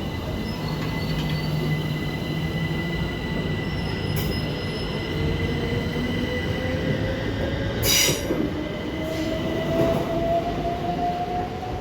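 Electric multiple-unit train pulling out of a platform, its traction motors giving a whine that rises slowly in pitch as it gathers speed over a steady running rumble. A short, sharp hiss breaks in about eight seconds in.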